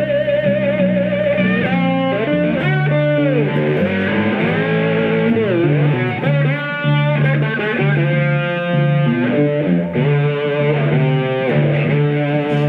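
Live electric blues guitar. A lead line with string bends and vibrato plays over a walking bass line picked on a seven-string guitar.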